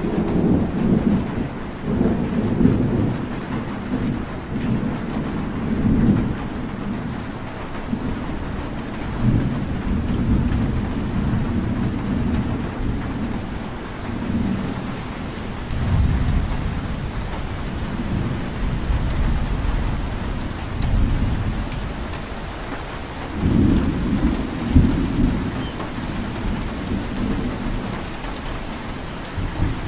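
Steady rainfall hiss with a deep rumble underneath that swells and fades several times.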